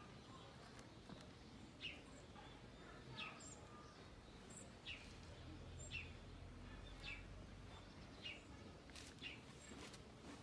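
Faint calls of a small wild bird: short, sharp chirps repeated about once a second.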